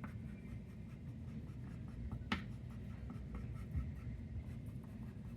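Chalk scratching short dashes onto paper, a quick string of light strokes, with one sharper tap a little over two seconds in.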